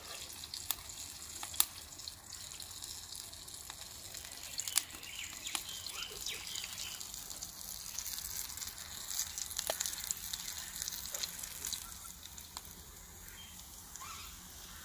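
Pea-and-potato patties sizzling and crackling in hot oil in a metal pan, with a few sharp clicks of a steel spoon against the pan as they are lifted out.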